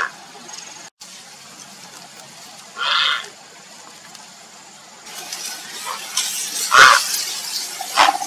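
Grey heron giving short, harsh calls spaced a few seconds apart, three in all, the loudest about seven seconds in. A steady background hiss grows louder about halfway through.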